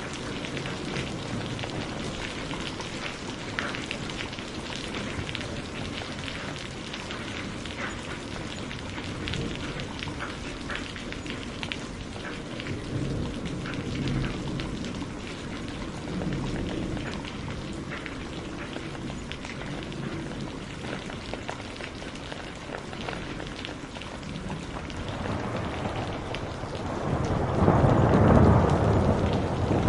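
Steady rain with the patter of individual drops, and thunder rumbling: soft rolls in the middle and a louder, deep roll swelling up near the end.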